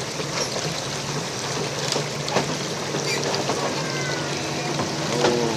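Big Kobelco excavator's diesel engine running with a steady hum under a hiss of noise, with scattered clicks and a few short squeaks.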